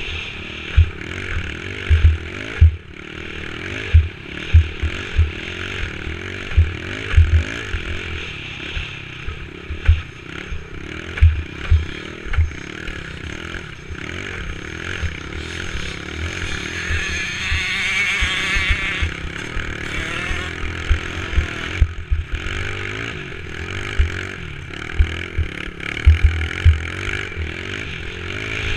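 Dirt bike engine running while riding, with the revs climbing and wavering about two-thirds of the way through. Frequent short low thumps run under the engine noise.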